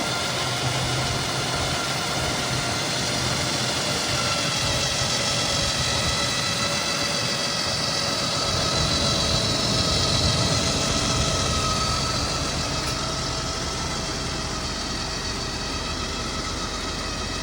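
The 4.2-litre M116 V8 of a 1990 Mercedes-Benz 420SEL idles steadily while warming up after a cold start. The level swells slightly partway through.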